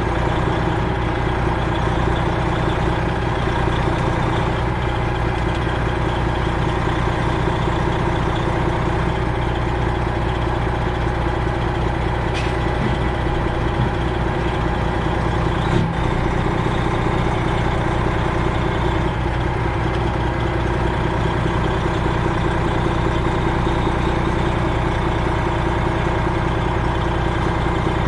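Semi-truck diesel engine idling steadily, heard from inside the cab. There is a single sharp knock about 16 seconds in.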